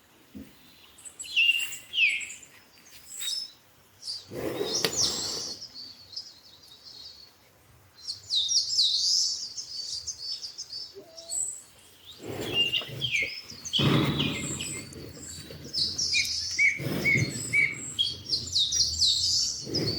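Several small birds chirping and twittering in a rural morning chorus, many short high calls overlapping. A few times a low rushing noise swells for about a second and fades.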